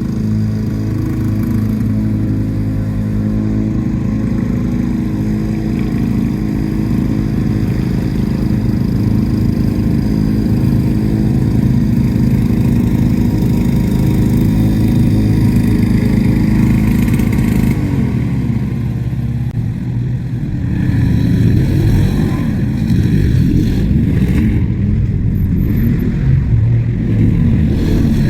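Lawn-Boy two-stroke mower engine running at speed, at first steady; about two-thirds of the way through its pitch begins to waver up and down.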